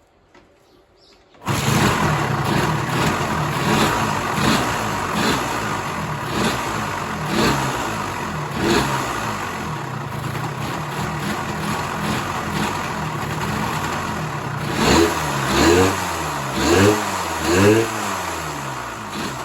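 Honda MVX250F's two-stroke V-three engine catching and starting about a second and a half in, after some seven years laid up, then running with repeated throttle blips and four quick revs near the end.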